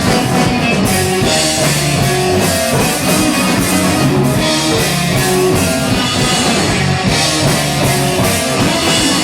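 A rock band playing live: drum kit and electric guitar in a steady instrumental passage, with no vocals.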